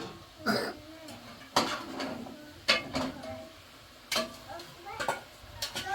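Dishes and utensils clattering: a series of sharp clinks and knocks, about seven of them, roughly a second apart.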